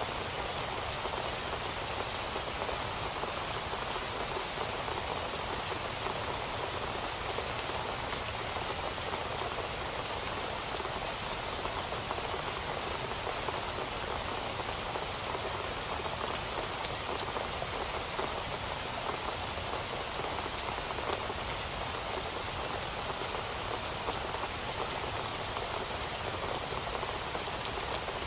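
Steady rain falling, a dense even hiss with the patter of individual drops hitting a surface.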